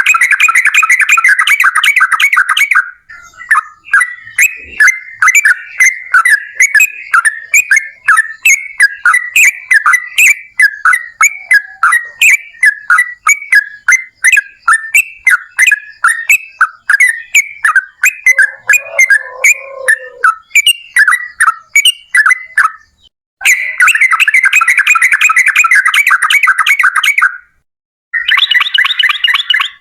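Yellow-vented bulbul (trucukan) singing loudly. A dense, rapid trill, the 'long rapid-fire' (ropel panjang) song, opens the passage. Then comes a long run of separate quick chirped notes, two or three a second. The rapid trill returns near the end, broken by two short pauses.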